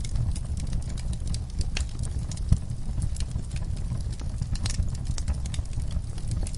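Fireplace fire crackling, with irregular sharp pops over a low steady rumble of the flames; one louder pop about two and a half seconds in.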